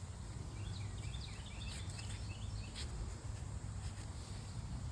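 A bird gives a quick series of short chirps during the first half or so, over a steady low rumble and a couple of faint clicks.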